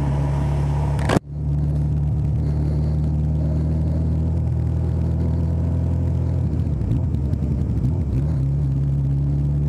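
Honda CB 1000R's inline-four engine running steadily while riding through town, with a sharp click about a second in and the engine note wavering briefly past the middle.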